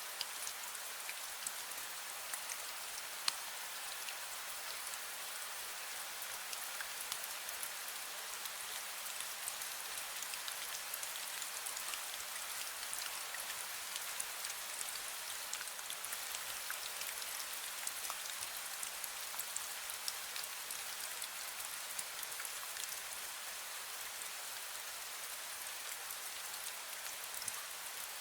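Steady light rain, a fine drizzle, pattering evenly with many small drop ticks and one sharper tick about three seconds in.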